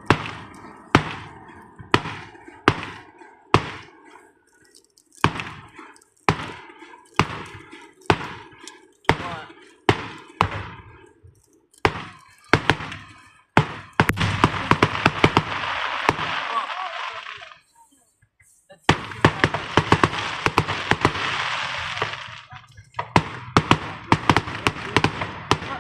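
Fireworks going off: a string of sharp bangs about one a second, then two long stretches of dense crackling, each lasting a few seconds, with more bangs among them.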